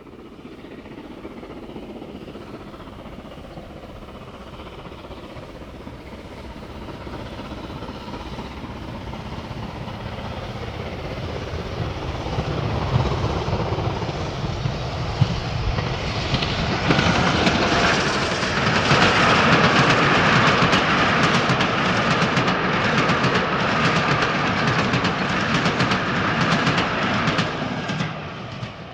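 Steam train drawing closer, growing steadily louder over the first fifteen seconds or so, then running close by with a fast, regular clatter, before dropping away near the end.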